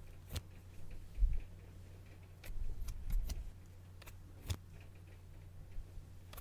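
Close-miked ASMR trigger sounds: a handful of sharp, irregularly spaced clicks and taps, with a couple of soft low thumps, over a steady low hum.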